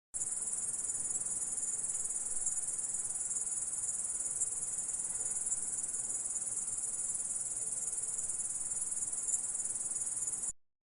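Insect stridulation: a continuous, high-pitched, shrill chirring that holds steady, then cuts off abruptly near the end.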